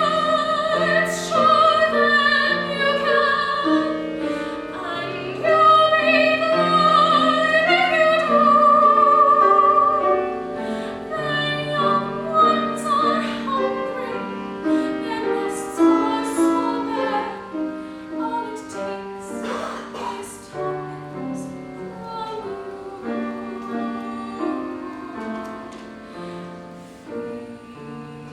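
A solo singer in classical style, with vibrato, over piano accompaniment for about the first ten seconds; then the piano goes on with less singing and grows gradually quieter.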